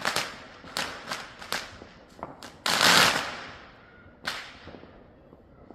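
Fireworks going off: a run of sharp bangs, each with an echoing tail. The loudest is a longer crackling burst about three seconds in, and a last single bang follows about a second later.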